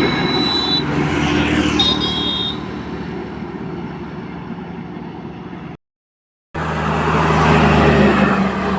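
Road traffic with trucks passing: engine hum and tyre noise swelling and fading. The sound cuts out completely for under a second about six seconds in, then a heavy vehicle's engine comes up loud near the end.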